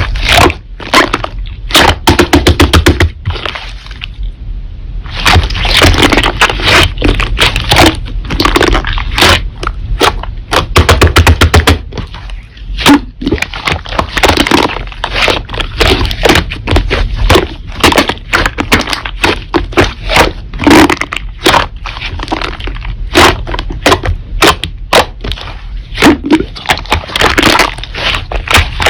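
Slime being squeezed and pressed by hand, giving a dense, irregular run of sharp crackles and pops.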